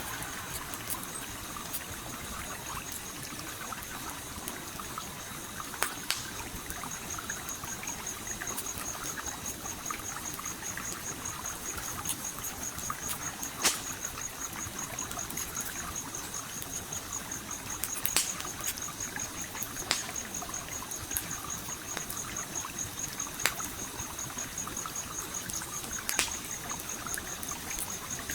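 Stream water trickling and flowing steadily, with a campfire crackling over it in sharp pops, about five of them loud, scattered through. A thin, high, fast-pulsing tone runs on from about a third of the way in.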